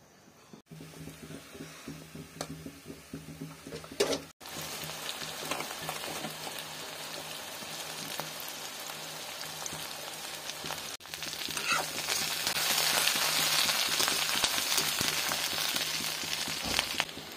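Chopped green capsicum sizzling in hot oil in a kadhai, a steady frying hiss that gets louder about two thirds of the way through.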